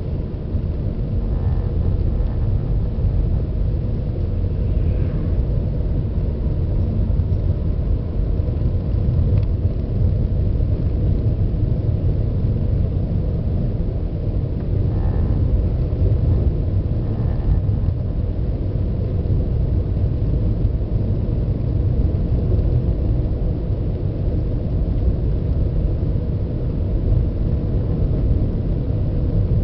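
2004 Toyota Crown Royal Extra driving at low to medium speed: steady low road and engine rumble, with a short buzzing noise a couple of times, about a second and a half in and again around the middle. The buzz is the car's recurring abnormal noise, traced to a heater hose touching the bulkhead and passing engine vibration into it.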